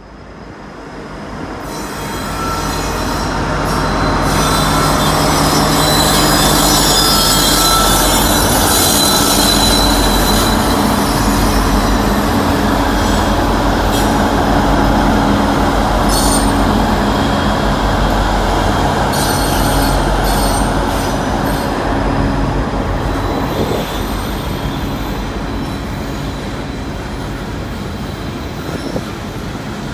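EMD SD60E diesel locomotives hauling a loaded coal train, getting louder over the first few seconds as they come by, then a long string of loaded coal hoppers rolling past. The wheels squeal on the curve, with scattered clicks from the wheels.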